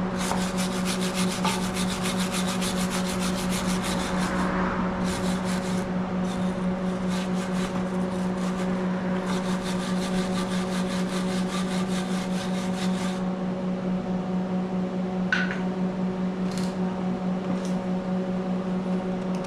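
Angle grinder cleaning up a fresh weld on a steel excavator bucket: the grinder motor hums steadily while the tool scrapes rapidly against the metal. The scraping stops about thirteen seconds in, with only a few brief touches after, while the motor keeps running.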